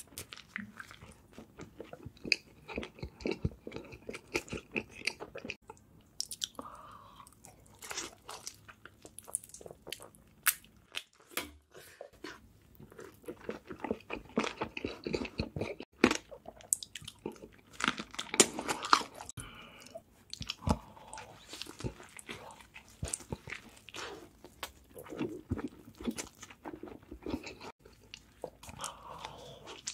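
Close-miked ASMR eating: a person biting into and chewing crispy fried food, with many short crunches in clusters between quieter chewing.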